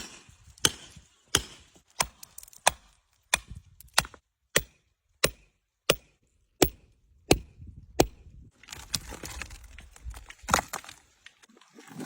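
Hammer striking rock, a steady run of sharp blows about three every two seconds while a nodule is worked out of shale. After about nine seconds the blows give way to scraping and rustling with a few more knocks.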